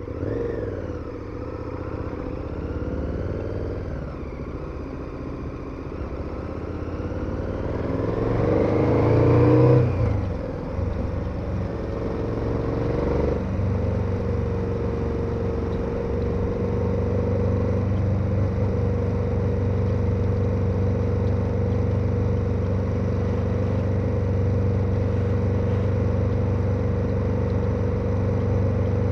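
KTM 1290 Super Adventure's V-twin engine pulling hard, revs rising twice to a loudest peak about ten seconds in, then dropping and settling into a steady cruise from about halfway through.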